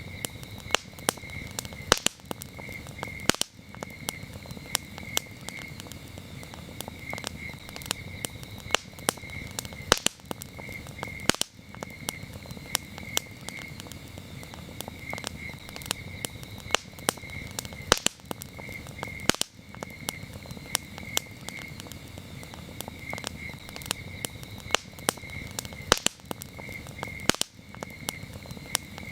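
Campfire crackling, with many sharp snaps and pops at irregular moments over a low steady hiss of the burning wood. Crickets chirp throughout in quick pulsed trills.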